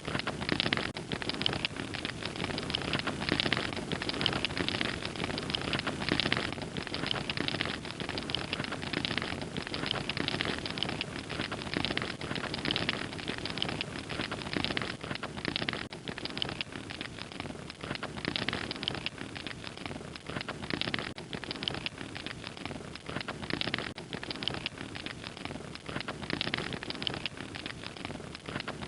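Wood fire crackling steadily: many small irregular snaps over a soft constant hiss.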